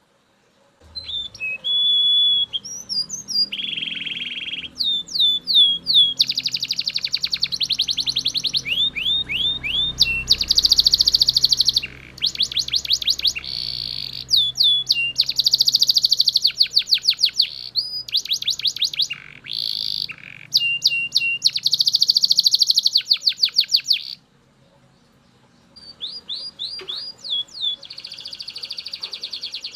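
Male Belgian canary singing loudly: phrase after phrase of rapid high trills, repeated sweeping notes and buzzy rolls. The song breaks off for about two seconds near the end, then starts again.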